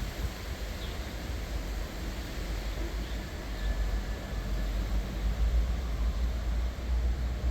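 Strong wind ahead of a dust storm, a steady rushing noise with low buffeting rumble on the microphone that grows heavier near the end.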